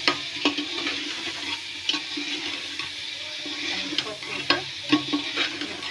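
Chicken pieces sizzling in hot oil in a metal degh as a steel spoon stirs them, with sharp, irregular knocks and scrapes of the spoon against the pot.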